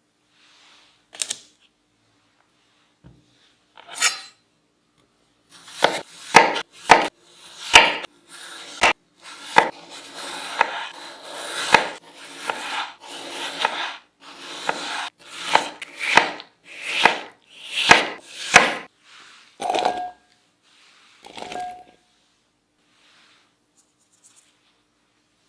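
Knife cutting raw potatoes on a cutting board: a run of sharp chops, roughly one to two a second, with scraping between them. Near the end come two lighter knocks with a short ring, like a bowl or utensil being set down.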